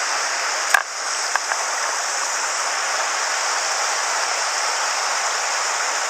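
Mountain headwater stream rushing steadily over rocks, with one sharp click a little under a second in.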